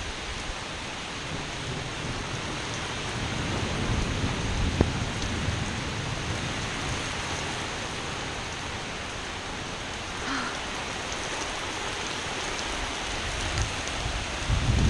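Heavy rain pouring steadily in a severe thunderstorm, with a low rumble swelling a few seconds in.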